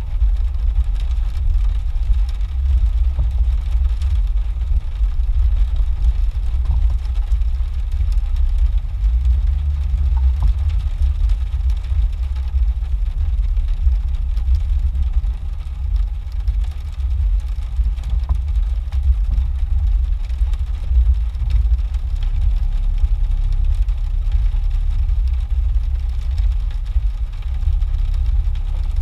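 Jeep engine running at low, steady revs as it crawls along a muddy off-road trail, heard from inside the cab as a constant deep drone.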